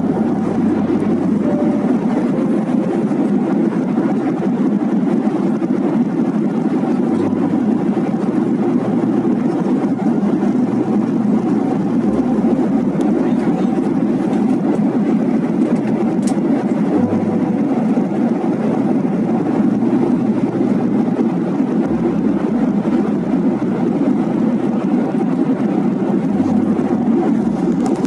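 Steady engine and airflow noise in the cabin of a jet airliner, even and unchanging, centred low in pitch.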